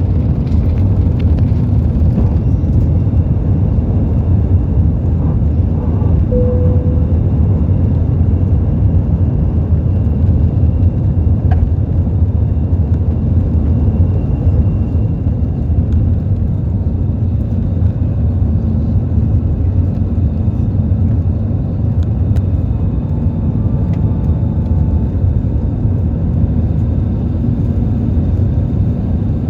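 Airbus A320 running with a steady low rumble that holds at an even level throughout.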